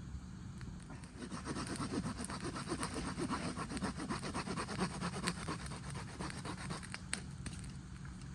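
A cheap hand saw cutting through a branch of firewood in repeated rasping back-and-forth strokes, which ease off about six seconds in, followed by a single sharp snap.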